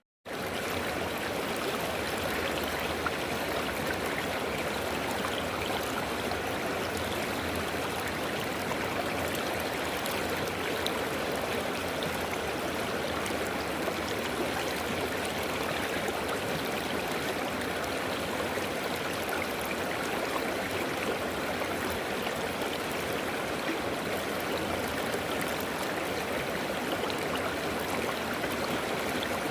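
River water flowing steadily, an even rush that cuts out for a split second at the very start.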